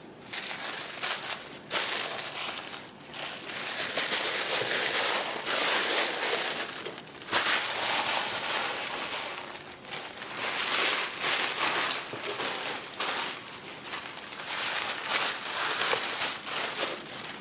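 Packaging crinkling as it is handled, uneven and fairly loud with brief pauses every few seconds.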